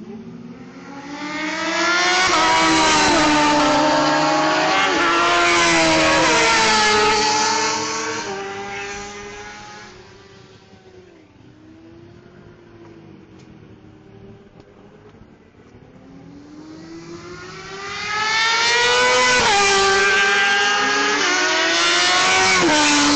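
Several superbike race motorcycles accelerating hard past, their engines climbing in pitch with quick upshifts. The pack goes by and fades, and a second group passes about seventeen seconds in.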